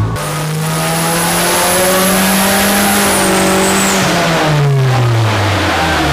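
2015 Ford Mustang engine in its original, untuned state, run hard on a chassis dynamometer. The revs climb steadily for about three seconds with a high whine over the engine note, then fall away from about four seconds in.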